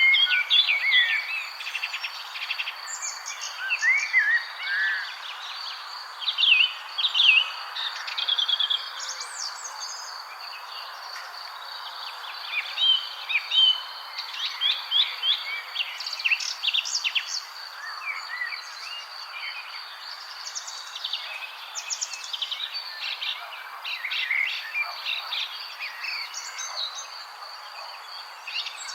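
Several songbirds chirping and trilling, with many short quick calls, over a steady high-pitched insect drone.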